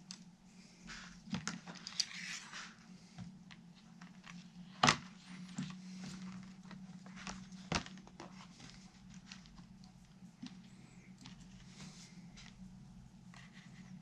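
Scattered small clicks, taps and rustles of tools and guitar parts being handled during bench assembly, with a sharp knock about five seconds in and another near eight seconds. A steady low hum sits underneath.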